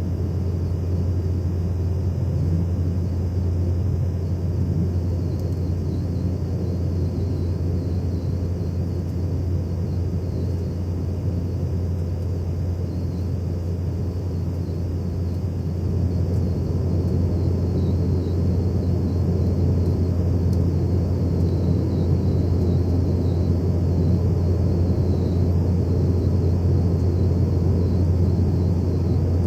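Cabin noise inside an Embraer ERJ-190 airliner during departure: a steady, deep rumble of its GE CF34 turbofan engines and the airflow past the fuselage. It grows a little louder about halfway through.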